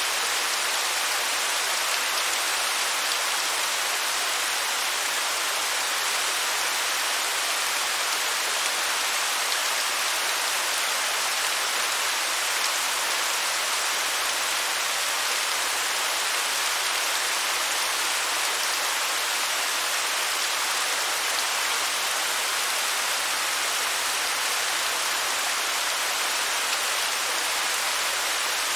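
Waterfall: a steady, even rush of falling water, hissy and bright with little low rumble.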